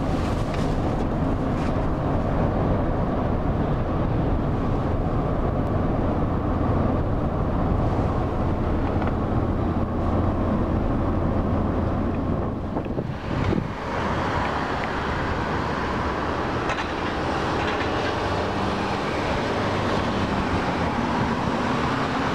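Car ferry's engines droning steadily with a low hum. About thirteen seconds in the hum drops back and a broader rushing hiss takes over.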